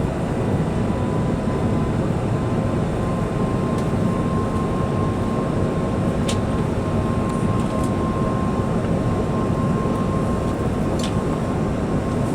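Steady cabin roar of an Airbus A380 in flight, engine and airflow noise with a thin steady whine above it. Two faint brief ticks, around the middle and near the end.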